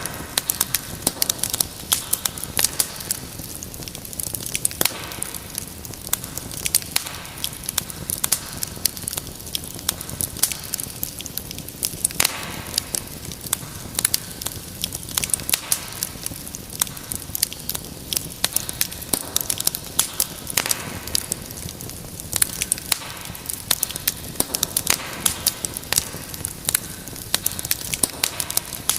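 Wood fire in a fireplace crackling steadily, with frequent sharp, irregular pops and snaps over a low steady rush of flame.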